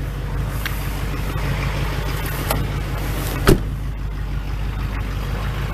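A 2005 Chevy Silverado 2500's 6.6-litre Duramax V8 diesel idling steadily with a low rumble, freshly cold-started. A single sharp click sounds about three and a half seconds in.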